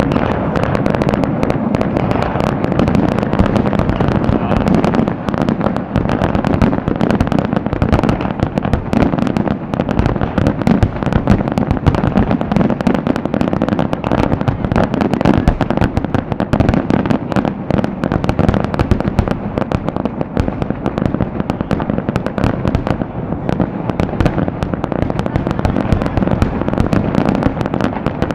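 Fireworks display at its height: a dense, unbroken run of shell bursts, many bangs a second, with no pause.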